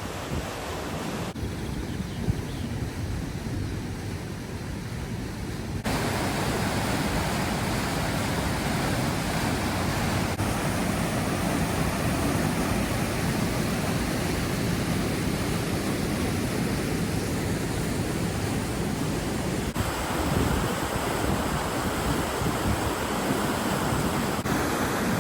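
The River Dee rushing through the rocky Linn of Dee gorge: a steady, dense rush of white water. It steps up abruptly in level about six seconds in and shifts sharply a few more times.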